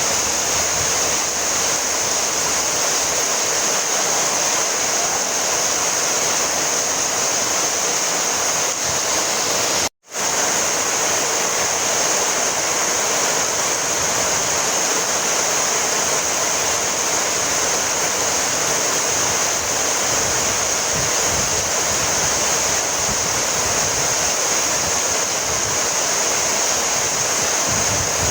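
Heavy rain falling steadily, an even hiss. It cuts out for an instant about ten seconds in.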